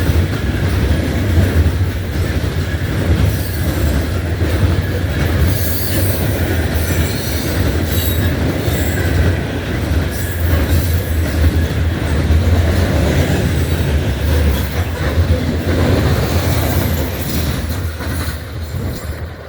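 Loaded coal hopper cars of a freight train rolling past: a heavy steady rumble with high wheel squeal on and off and occasional clacks, dropping off just before the end as the train passes.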